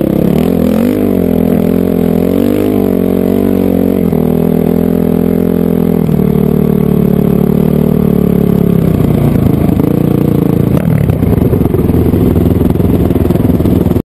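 Honda CRF450R dirt bike's single-cylinder four-stroke engine running under way, its pitch rising and falling with the throttle for the first few seconds, then steadier, and rougher and noisier from about nine seconds in.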